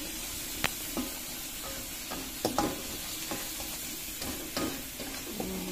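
Spice paste sizzling in hot oil in a wok while a spatula stirs it, clacking and scraping against the pan several times.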